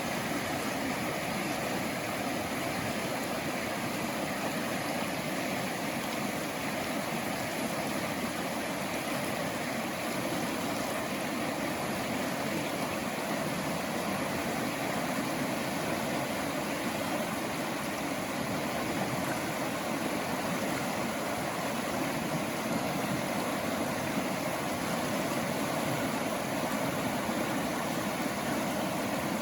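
Running water: a steady, unbroken rushing.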